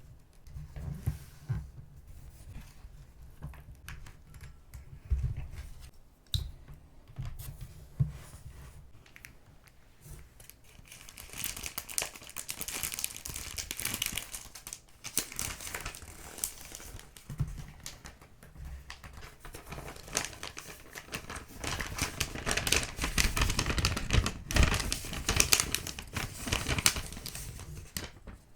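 Paper and paper packaging being handled at a desk: scattered soft taps and thumps at first, then steady, louder crinkling and rustling from about a third of the way in, strongest near the end.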